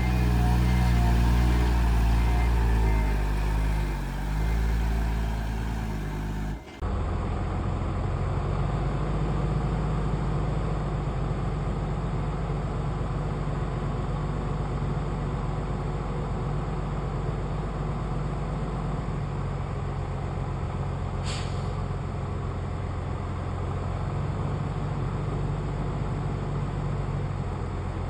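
Heavy diesel engine of a dump truck manoeuvring, its pitch rising and falling, with a reversing alarm beeping over the first few seconds. About seven seconds in, the sound cuts abruptly to a steady diesel engine drone, with one brief click about two-thirds of the way through.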